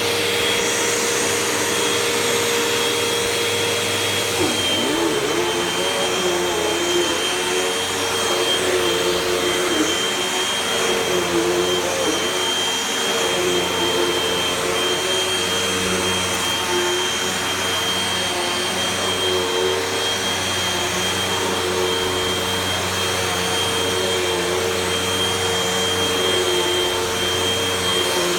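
Hoover vacuum cleaner running steadily while vacuuming carpet, with a constant high whine over its motor and airflow noise; a lower motor tone wavers slightly.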